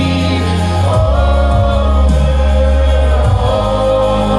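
Live worship music: a choir of singers with band accompaniment, holding long sung notes over a sustained bass line in a gospel praise song.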